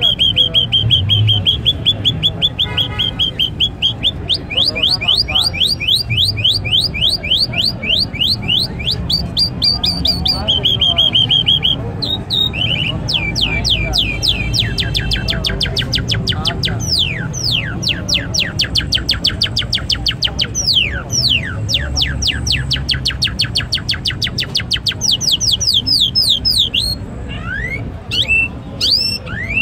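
Small caged birds calling: long runs of rapid high chirps, about five a second, broken by stretches of a steady high trill. Near the end the calls thin out into a few separate rising notes.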